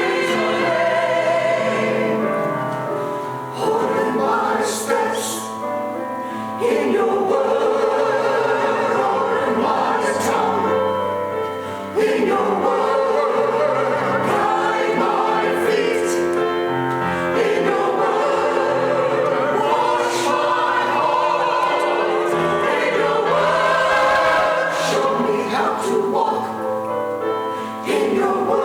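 Church choir singing, with several voices holding long notes in phrases that break off briefly every few seconds.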